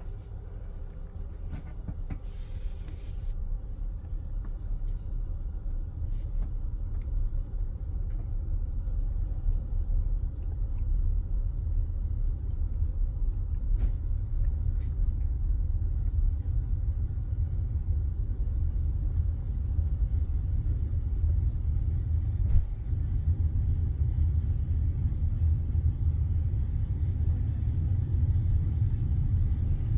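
Low rumble of a passenger train carriage rolling on the track, growing louder over the first ten seconds or so as the train gathers speed, then holding steady.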